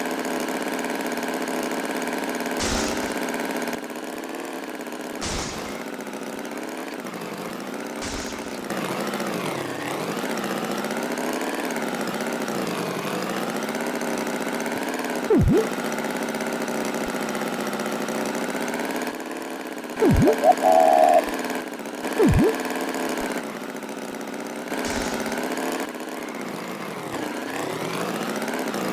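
An engine running steadily at idle, its pitch wavering slightly, with a few short sudden sounds over it.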